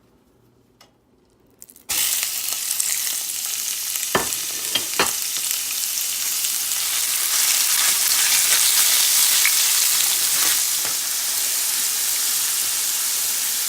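Raw chicken pieces dropped into hot oil in a frying pan, setting off a sudden loud sizzle about two seconds in that keeps frying steadily. A couple of sharp knocks of a utensil against the pan come soon after.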